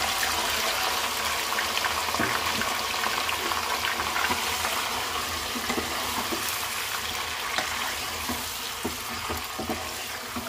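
Marinated raw chicken sizzling in hot oil in a wok with fried onions and whole spices as it is stirred: a loud, steady sizzle full of small crackles that eases off slightly near the end.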